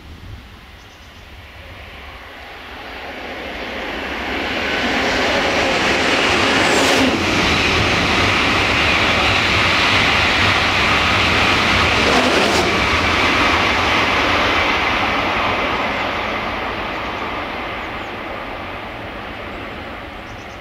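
Train passing at speed: a rushing noise swells over a few seconds, holds loud for about ten seconds, then fades away. Two brief sharp sounds come during the loud stretch, about five seconds apart.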